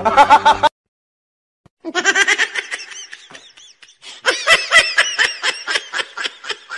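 Laughter sound effects: a laugh cuts off, then after a second of silence a high-pitched laugh comes in quick repeated bursts. It tails off, then a second, louder fit of laughing starts a little past the middle.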